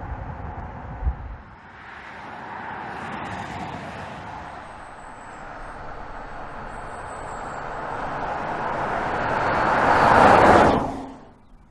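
Audi e-tron GT electric car driving past: tyre and road noise swells steadily as it approaches, peaks about ten and a half seconds in, then falls away sharply. A low rumble and a thump come in the first second or so.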